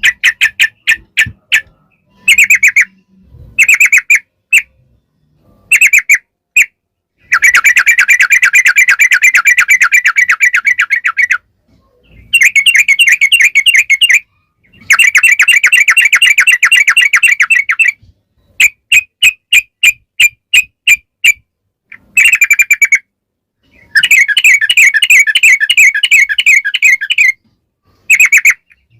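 Yellow-vented bulbul (trucukan) singing a loud, rapid chattering song: short bursts of a few quick notes alternate with long unbroken runs of fast notes lasting three to four seconds each.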